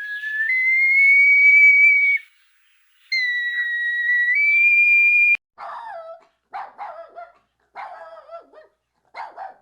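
Animal calls: two long, high, steady whine-like calls, each stepping up in pitch partway through. After an abrupt cut comes a series of short, falling calls about once a second.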